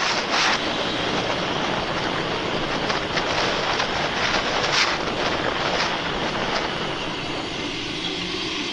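Steady noise of a moving vehicle, as picked up by a dashcam, with a few faint ticks.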